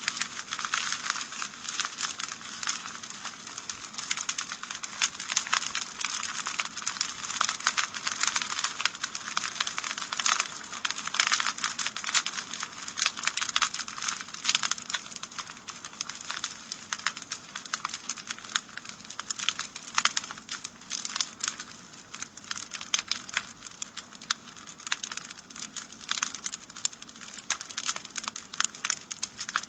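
Wood fire in a fireplace crackling steadily, a dense run of small pops and snaps.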